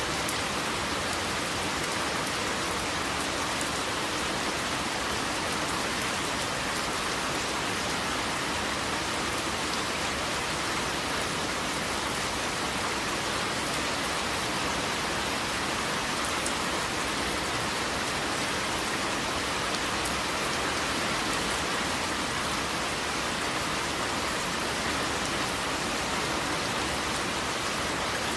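Steady rain falling, an even hiss of drops without pauses or changes.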